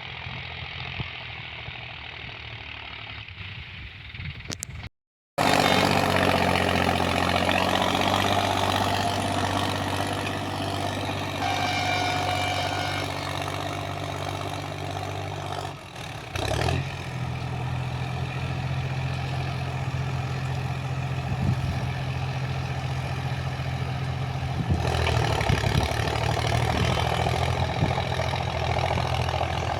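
Sonalika Tiger 745 III 4x4 tractor's diesel engine running steadily. It is muffled at first, cuts off briefly about five seconds in, then comes back louder and grows louder again near the end.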